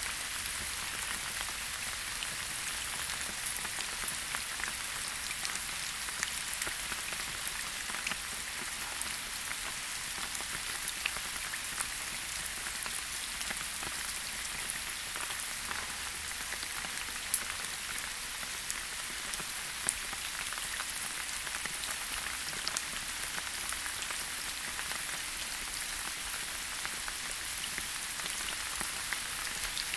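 Steady rain falling on foliage, an even hiss with many separate drops ticking, and a few louder drop hits.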